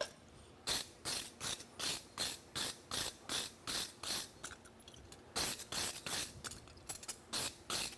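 A farrier's rasp filing a steel horseshoe flat in quick, even strokes, about two to three a second, with a short pause midway.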